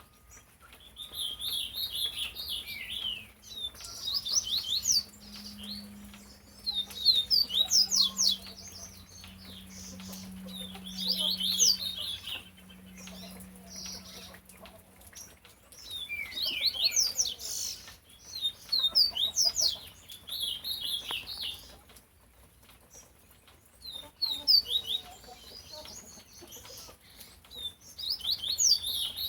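Pet songbirds singing in repeated bursts of rapid, high chirping phrases a few seconds apart, with short pauses between them.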